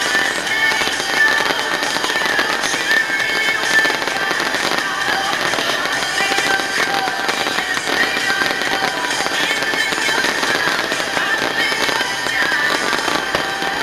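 Stadium fireworks going off, a dense, continuous crackling with many rapid pops, at a steady level throughout.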